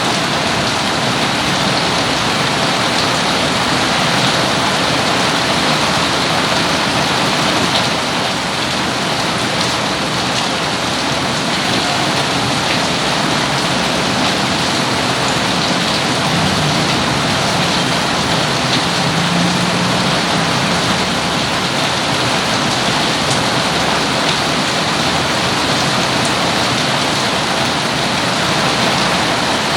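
Steady rain falling and pattering on surfaces, an even, unbroken wash of sound.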